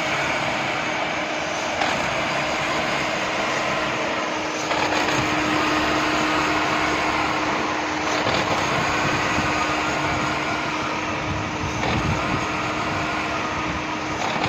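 2010 Hyundai Verna VGT's four-cylinder diesel engine running with a misfire: one cylinder is not firing properly, so the engine runs unevenly. A steady hum runs under the engine noise, and the level rises slightly about five seconds in.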